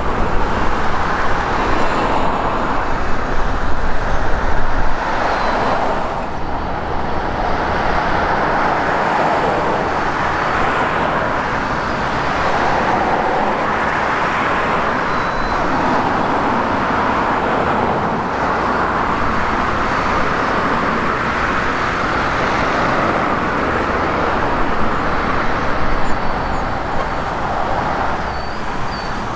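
Jet engines of a Boeing 767 running on the ground, a steady rush of noise.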